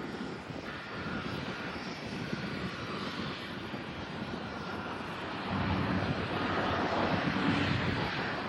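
Airliner engines running, a steady rushing noise that grows louder about five and a half seconds in, with a low hum joining it.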